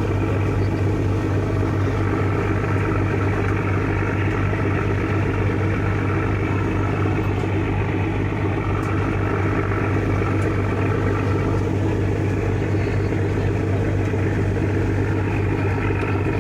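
Ship's engine droning steadily, heard on board, with an even low hum and no change in pitch or loudness.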